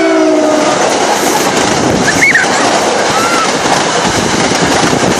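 New Jersey Transit train passing close by at speed: the last of its horn chord dies away in the first second, then a steady loud rush of the cars going by.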